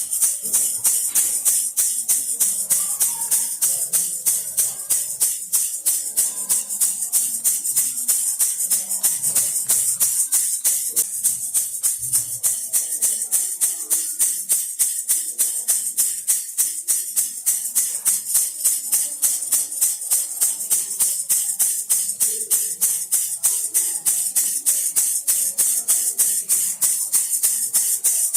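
Baby rattle shaken steadily in an even rhythm, about three shakes a second, each shake a short high rattle of beads.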